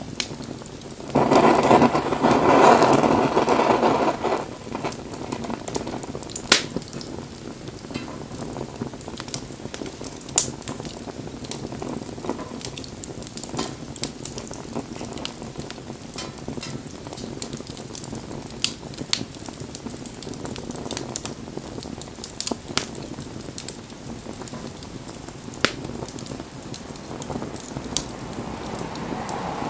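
Wood bonfire burning: a steady crackle with scattered sharp pops of burning wood. About a second in, a louder rushing hiss lasts about three seconds.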